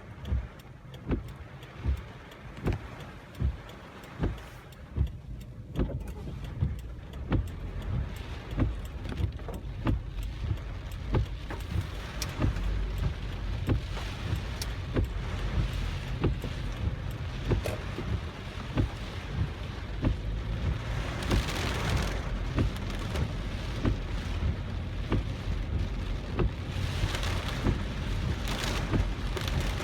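A car driving through heavy typhoon rain, its windshield wipers knocking at each stroke a little under once a second over the low road rumble. Rain on the car grows heavier about halfway through and surges louder twice near the end.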